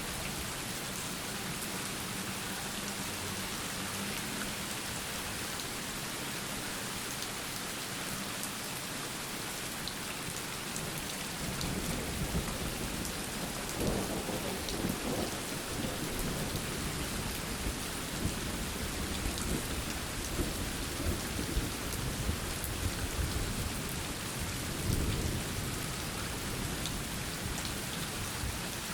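Steady rain falling. About twelve seconds in, a long, uneven rumble of thunder sets in, rising and falling with several louder peaks.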